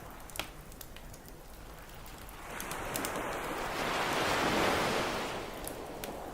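An ocean wave surging onto the beach, swelling about two seconds in and fading away near the end, over the scattered crackles and pops of a wood campfire, with one sharp pop early.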